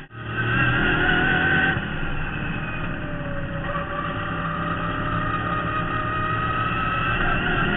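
V8 engine of a 1972 Marcos GT race car heard from the cockpit, pulling hard at high revs. About two seconds in the note drops as the throttle comes off, then it climbs slowly and steadily again as the car accelerates.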